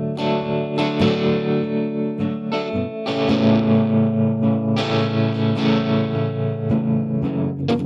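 Rock band playing an instrumental passage led by distorted electric guitar chords, with sharp percussive hits every half second or so.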